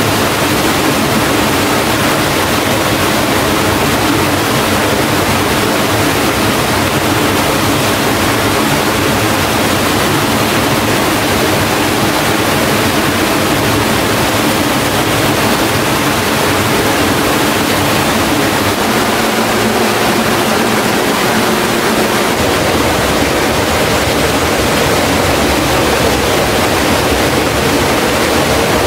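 Waterfall water rushing, a loud, steady, unbroken noise. A deeper rumble joins it about three quarters of the way through.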